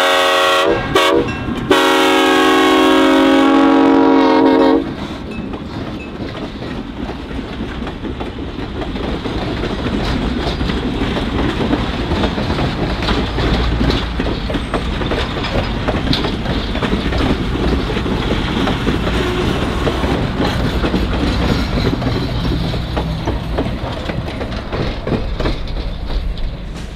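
Diesel locomotive's multi-chime air horn ending a series of blasts: a short toot about a second in, then a long blast of about three seconds that cuts off. The train then rumbles past with wheel clickety-clack, getting a little louder partway through and staying steady to the end.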